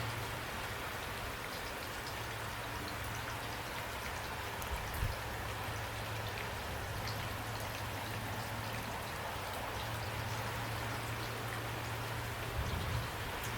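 Steady rain falling, an even hiss with scattered fine drop ticks, over a low steady hum. A soft low thump comes about five seconds in and again near the end.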